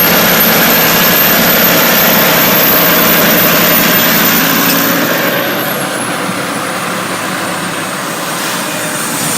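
Volvo D13 13-litre inline-six diesel of a Prevost coach running on the road, a steady heavy drone with a thin high whistle over it. About five and a half seconds in, the whistle slides down in pitch and the engine sound eases slightly.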